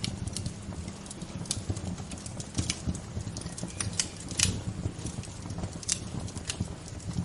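Wood fire crackling, with irregular sharp pops, a few louder snaps among many small ticks, over a steady low rumble.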